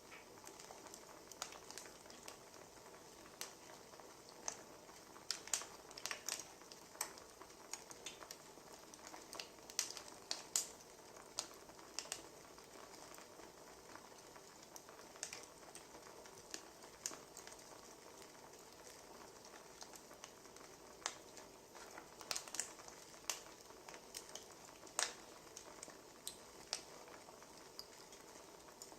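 Wood fire crackling, with irregular sharp pops over a faint steady hiss.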